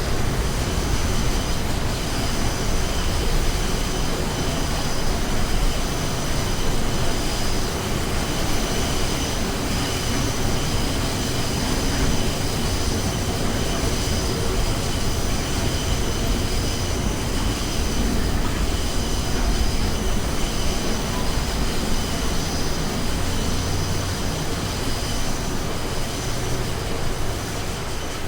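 NYC subway R179 train running on the track, a steady loud rumble of wheels and motors with several high-pitched tones held over it; it eases slightly near the end.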